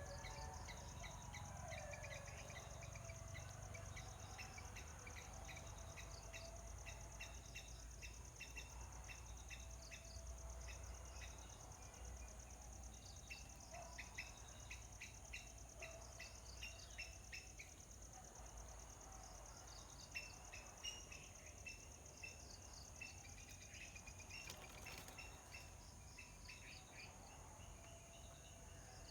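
Faint outdoor ambience: a steady, high, fast-pulsing insect trill, with small birds chirping many times in short repeated notes.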